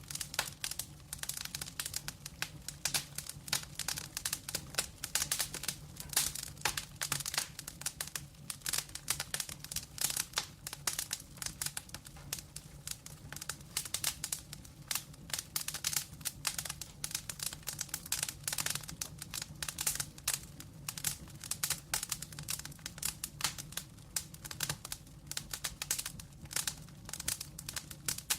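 Wood fire crackling and popping steadily, many irregular sharp snaps over a low steady hum.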